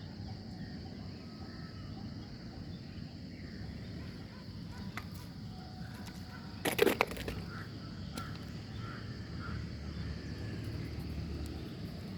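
Outdoor ambience with a steady high insect hum and a few faint bird calls. About seven seconds in, a brief, loud clatter of clicks is the loudest thing.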